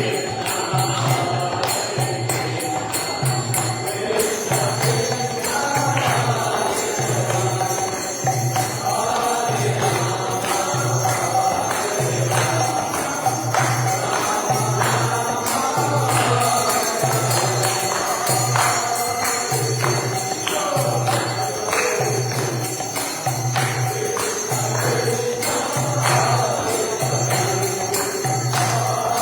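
Group devotional chanting (kirtan) with jingling hand cymbals and a steady low beat repeating about every second and a quarter.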